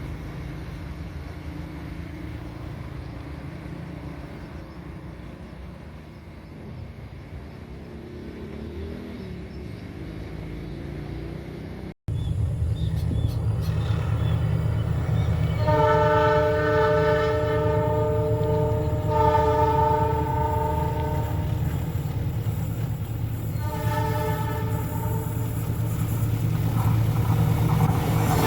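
Indonesian diesel locomotive running with a steady low rumble. About halfway through the rumble gets louder and the locomotive sounds its multi-tone horn in three blasts: two long ones close together and a shorter third.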